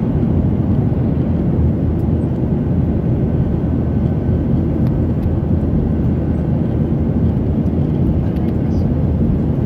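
Steady cabin noise of a jet airliner in flight: engine and airflow noise, even and unchanging, heavy in the low range, with a faint thin steady tone above it.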